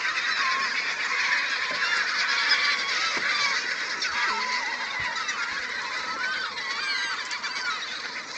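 A flock of gulls calling, many short cries overlapping one another, as the birds squabble over minnows at the water's surface.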